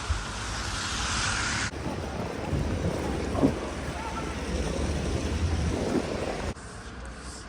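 Wind buffeting the microphone over outdoor street noise, a steady rumbling hiss that changes abruptly twice, about two seconds in and near the end, as the footage cuts.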